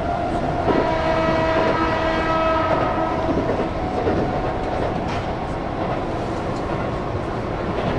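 Keihan electric train running at speed: steady rumble and rail noise, with a steady ringing tone at several pitches from about a second in until about three seconds.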